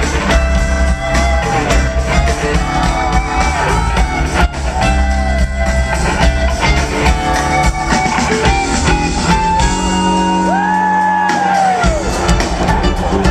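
Live jam-band rock music from the audience: a lead line of sliding and bending notes over bass and drums, with crowd shouts mixed in.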